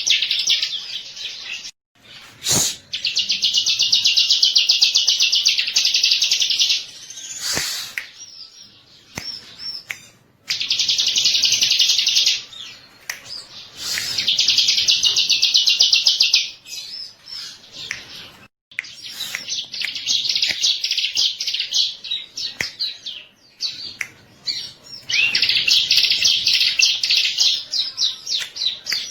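Bar-winged prinia (ciblek) singing: long bursts of very rapid, high chirping notes, each lasting several seconds, separated by short pauses. A couple of sharp clicks fall in the first third.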